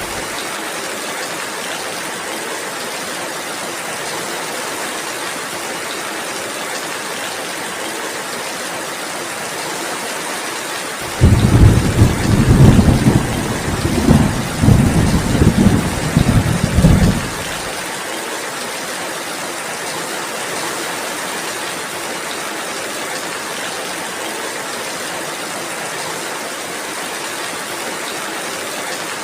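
Steady rain falling. About eleven seconds in, a loud low rumble of thunder rolls for some six seconds, then cuts off abruptly.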